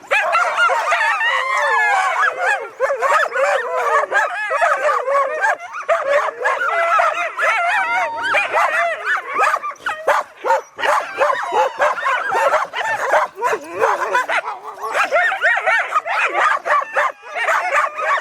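Sled dogs of a mushing team barking, yipping and howling together at feeding time, many voices overlapping in a continuous excited clamour.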